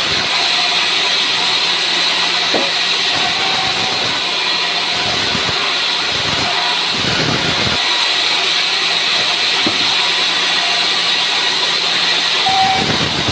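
Sawmill saw cutting dry pine wood: a steady, loud hissing machine noise with a few short low knocks.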